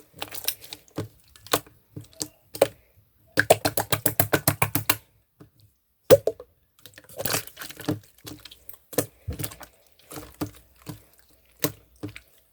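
Clear slime being worked by hand, making sharp wet clicks and pops, with a quick run of about ten clicks a second in the middle.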